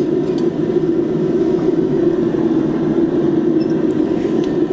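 Steady, even roar of a running forge, with a few faint light clicks of metal.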